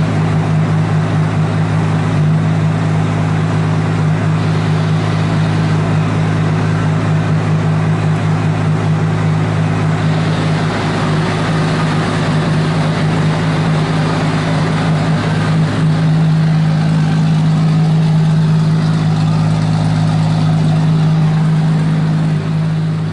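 Freshly built RB26 straight-six engine in a BMW E92 M3 running steadily, a little louder about two-thirds of the way through.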